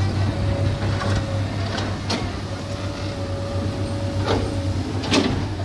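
Diesel engines of heavy earthmoving machinery running steadily with a low hum, with a thin whine that comes and goes. Three sharp knocks sound about two seconds in, just after four seconds and near the end.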